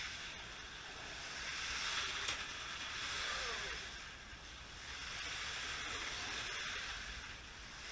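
Slot cars running around the track, their small electric motors making a steady high whir that swells and fades every couple of seconds.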